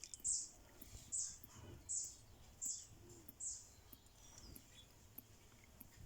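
A small bird calling: a series of five short, high chirps, evenly spaced at about one every three quarters of a second, then a fainter falling note.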